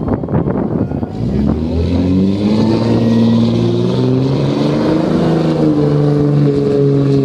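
Car engine revving up about a second in and held at high revs, as in a burnout.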